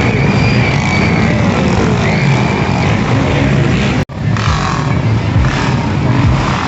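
Motocross dirt bike engines running and revving, with rising and falling pitch. The sound drops out for an instant about four seconds in.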